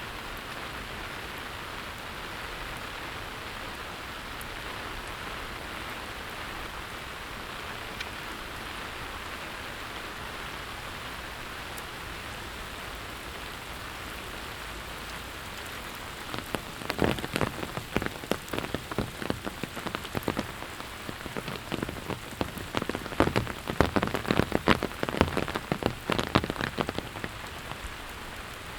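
Steady rain falling. A little past halfway, a run of loud, irregular taps close by lasts about ten seconds, then only the steady rain remains.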